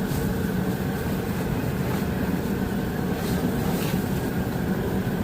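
Caterpillar 518 skidder's diesel engine running steadily while the winch hydraulics are pressurised, pushing oil out past the winch's torn U-seal.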